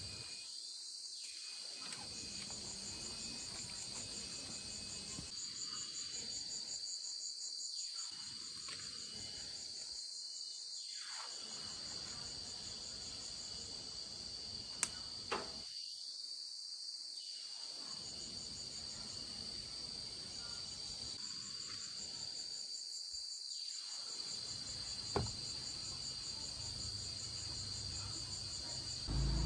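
Insects trilling steadily, a high pulsing chirp over a constant high whine, with a few brief clicks.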